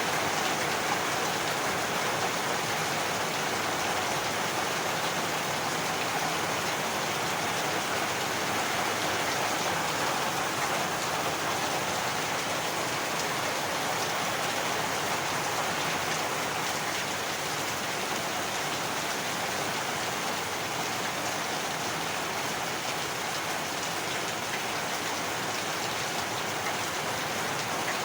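Steady heavy rain falling, an even hiss of drops.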